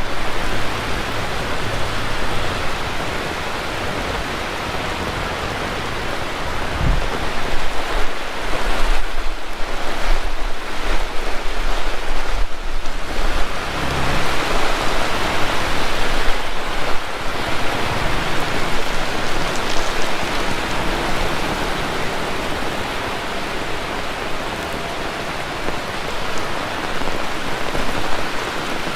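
Heavy rain pouring down, a dense steady hiss that grows louder and more uneven for several seconds in the middle. Low rumbling underneath.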